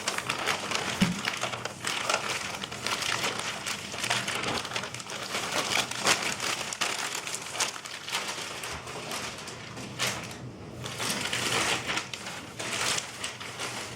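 Wrapping material being crinkled and crumpled in the hands while packing, a continuous crackling rustle that eases briefly about ten seconds in.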